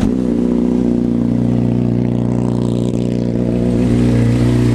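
Honda CBR600RR inline-four engine catching from the starter and settling into a steady idle. It is being run for its ticking noise, which the owner thinks might be the cam chain tensioner.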